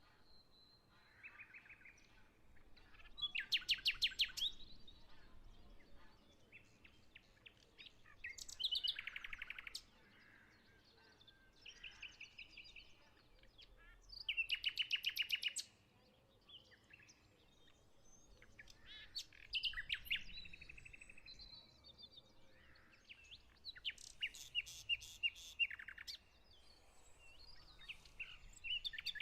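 Songbirds singing: a rapid trilled phrase repeated about every five or six seconds, with fainter chirps between.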